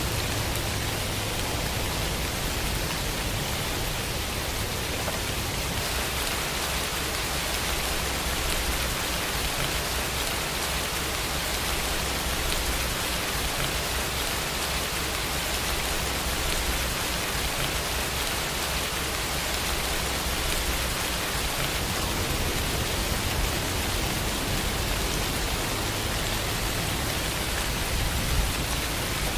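Steady heavy rainfall, an even hiss of rain on surfaces with a low rumble underneath.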